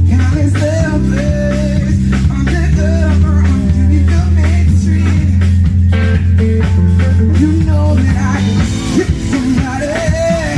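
A band playing with a singer: a steady bass line and drum kit under a sung melody.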